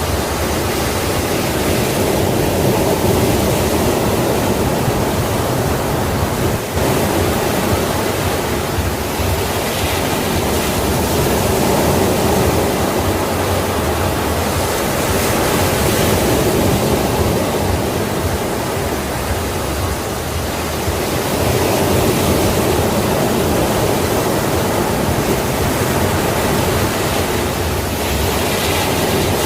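Sea waves washing onto a shore: a steady rush of surf that swells and eases a little every several seconds.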